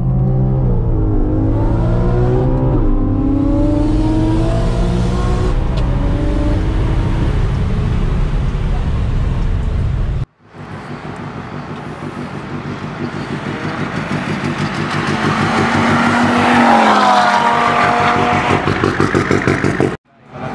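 Inside a Stage 2 Audi RS3, its turbocharged 2.5-litre five-cylinder accelerating hard through several quick upshifts, the note climbing and dropping back at each change. After a sudden cut halfway through, a racing car's engine grows louder, peaks, then falls in pitch as it goes past.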